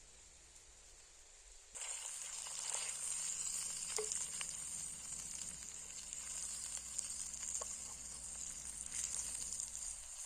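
Meat sizzling on a hot stone, a dense hiss with a few sharp pops of spitting fat. The sizzle comes in suddenly about two seconds in.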